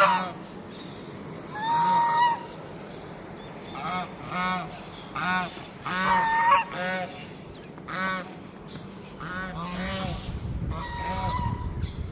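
Farm birds calling over and over, loud: a few longer held calls spaced a few seconds apart, with clusters of short clipped calls between them.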